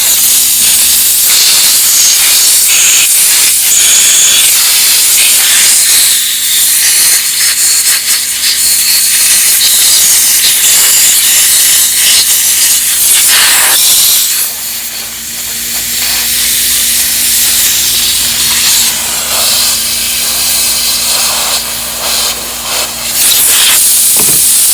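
Compressed-air blow gun hissing as it blows out a small-engine lawnmower carburetor to clear trash out of it. The air blast falls off briefly about fourteen seconds in, runs a little softer for a while, then comes back up to full near the end.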